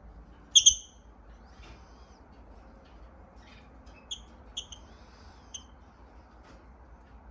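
Lovebird giving short, high squeaky chirps: two loud ones close together about half a second in, then three softer ones a few seconds later.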